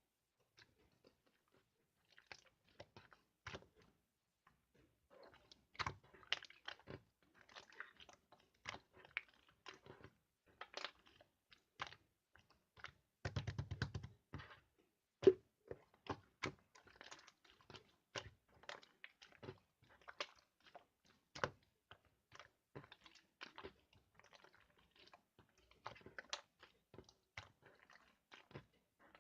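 Slime being kneaded and pressed by hand: irregular crackling clicks and small pops, with a quick run of pops about 13 seconds in and one sharp, louder pop a couple of seconds later.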